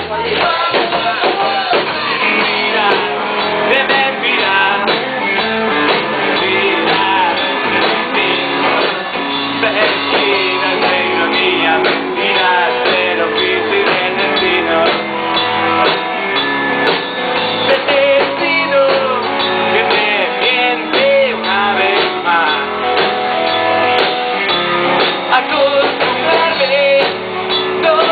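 Rock band music with electric guitars prominent, playing a passage without transcribed lyrics.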